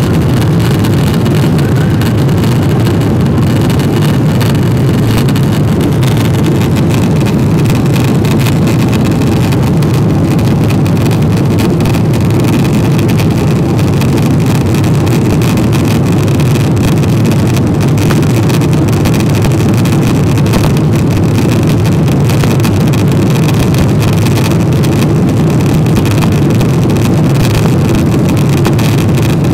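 Steady engine and airflow noise of an airliner as heard inside the passenger cabin during takeoff.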